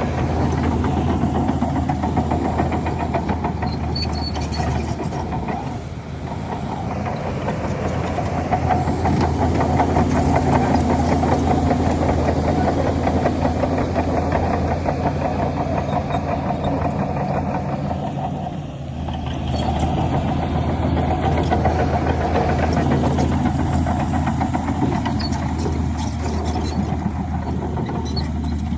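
Bulldozer's heavy diesel engine running steadily under load as it pushes fill, its level dipping briefly about six seconds in and again about two-thirds of the way through.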